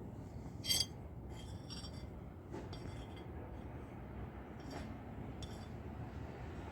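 Short, high, clinking bird calls: a loud one about a second in, a quick run of calls, then a few fainter ones, over a low steady rumble.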